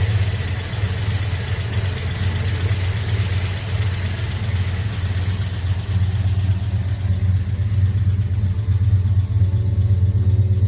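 Car V8 engine idling with a steady, low exhaust note, cutting in suddenly. The engine is likely the 327 cubic inch V8 of a 1956 Chevrolet Bel Air that has new exhaust and ceramic-coated headers.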